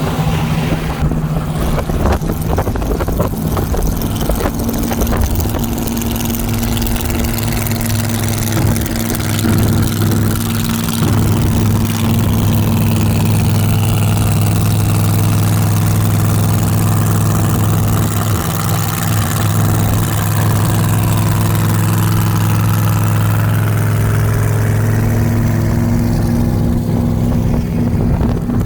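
A car engine idling steadily and close by, a low, even note that grows a little stronger about a third of the way in.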